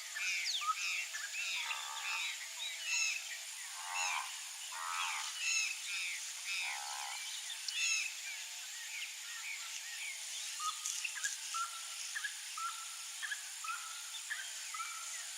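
Several wild birds calling together in a busy chorus of short, repeated chirps and arching calls, with a few lower, buzzier calls in the first half.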